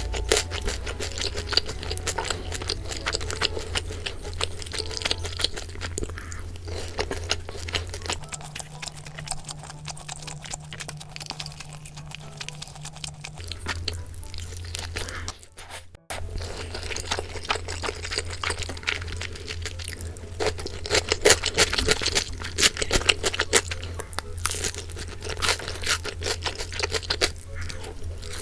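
Close-miked crunching and chewing of food: many sharp little crunches one after another, with a brief pause a little past the middle.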